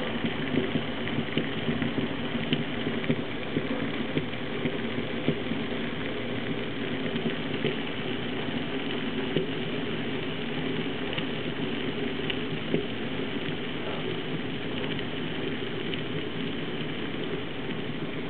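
Bodum Santos electric vacuum coffee maker bubbling and gurgling steadily as the heated water is forced up from the base into the upper chamber with the grounds, a stage of the brew before the base runs dry.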